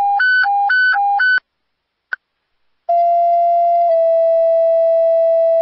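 Fire dispatch radio alert tones. A hi-lo tone alternates between two pitches about twice a second, then after a short beep a long steady paging tone begins and steps slightly lower a second later: a two-tone sequential page that sets off a unit's pagers before a dispatch.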